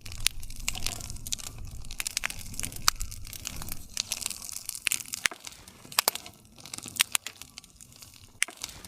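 Campfire wood burning, crackling with many irregular sharp pops over a low rumble.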